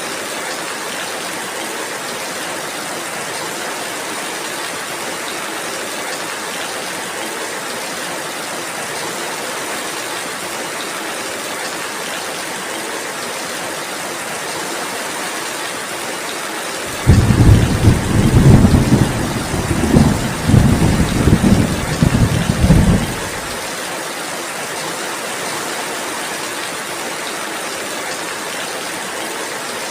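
Steady rainfall hissing, with a loud, low rumble of thunder that starts suddenly a little past halfway, swells and rolls for about six seconds, then stops abruptly.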